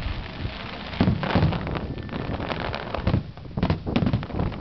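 Aerial firework shells bursting: a run of booms and rapid bangs, with a heavy boom about a second in and a cluster of sharper reports between about three and four seconds in.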